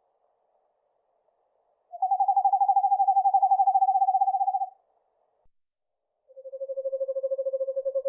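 Eastern screech owl giving its long monotone trill: two rapid, even trills held on one pitch, the first about two and a half seconds long, the second lower in pitch and starting near the end.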